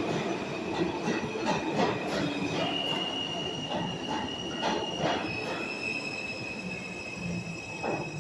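New York City subway train wheels squealing on the rails as the M train approaches the station: a steady high-pitched squeal that steps up in pitch a few seconds in, over repeated clacks from the wheels crossing rail joints.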